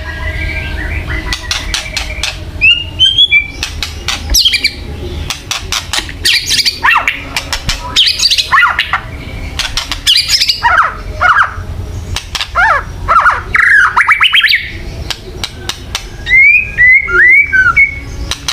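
Recorded songbird 'kretekan' calls: dense sharp clicking and rattling notes mixed with short whistled phrases that sweep up and down, with a quick run of falling whistles near the end. Kretekan is the harsh, agitated call that bird-keepers play to rouse a white-rumped shama to fighting mood.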